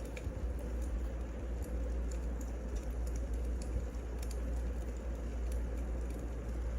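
Wood fire burning in a fireplace: a steady low rumble with small crackles and pops scattered through it.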